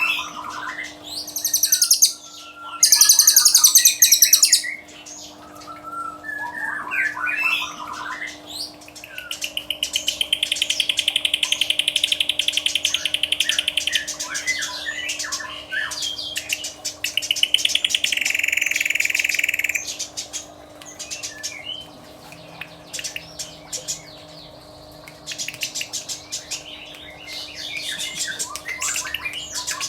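Caged songbirds singing: varied chirps and whistles, a loud high chatter in the first few seconds, and fast buzzy trills lasting several seconds about ten and eighteen seconds in.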